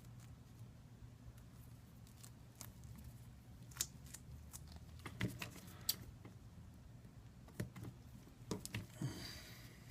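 Faint scattered clicks and taps from hands and small tools handling an iPad 2 during a screen repair, more of them in the second half, then a brief scratchy rustle near the end, over a low steady hum.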